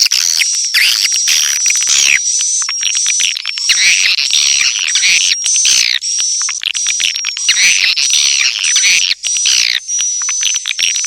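Edible-nest swiftlets twittering: dense, overlapping rapid chirps with a thin steady high tone underneath. This is a recorded swiftlet call sound, played to draw swiftlets into a swiftlet house.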